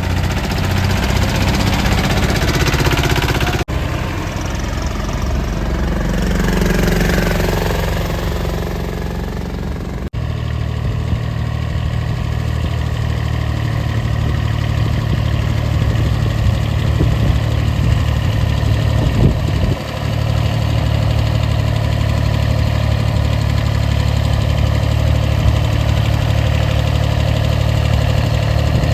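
Small diesel tractor engine running steadily, with abrupt cuts in the sound about 4 and 10 seconds in.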